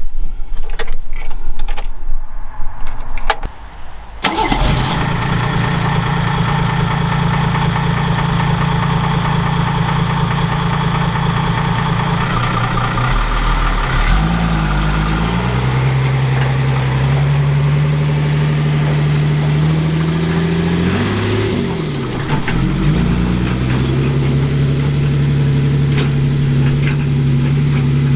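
Loud irregular knocking and clattering, then about four seconds in a vehicle engine starts abruptly and keeps running steadily. Its pitch glides up and down twice as the engine speed changes.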